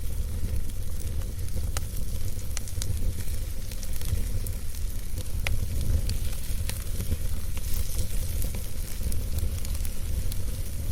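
Wood campfire burning, with scattered sharp crackles and pops over a steady low rumble of the flames.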